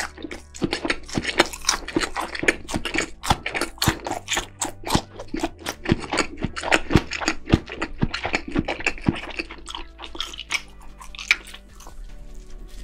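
Close-miked eating sounds of a roasted turkey leg being bitten and chewed: dense, quick wet clicks and smacks, thinning out near the end.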